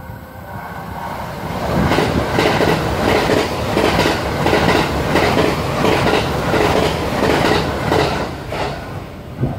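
JR West limited express electric train passing at speed without stopping. It swells as it comes in, then its wheels clatter over the rail joints in a steady beat of about two a second, and it fades near the end as the last car goes by.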